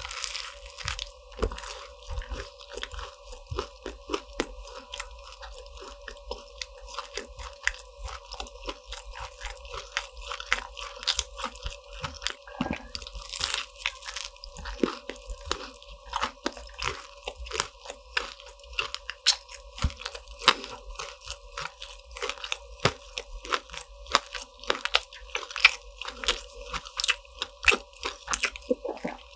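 Close-miked crunching and chewing of crisp croffles, with many sharp, irregular crackles as the flaky, caramelised waffle-pressed croissant crust is bitten and chewed.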